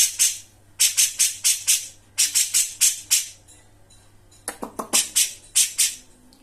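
Female cucak jenggot (grey-cheeked bulbul) calling a harsh, rasping chatter, in runs of four to six notes at about four to five a second with short pauses between runs.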